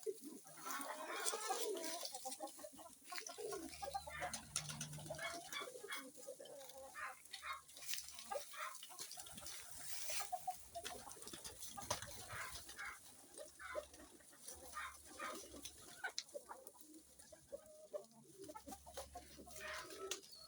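Kienyeji hens clucking, a long run of short repeated calls, with pigeons cooing now and then.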